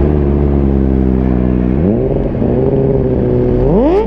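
Suzuki GSX-R750's inline-four engine running under way, its pitch steady and then jumping sharply up twice, about two seconds in and again near the end, holding the higher pitch after each jump as the rider twists the throttle.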